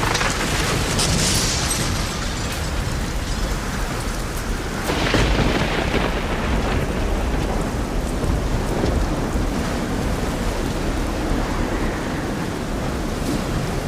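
Steady, heavy rain with a dense, even hiss. It swells briefly just after the start and again about five seconds in, the second swell with a deeper low rumble.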